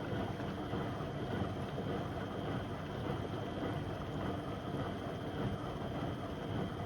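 Beko WM74135 washing machine running with a load of door mats: a steady drum-and-motor rumble with water noise and a faint high whine.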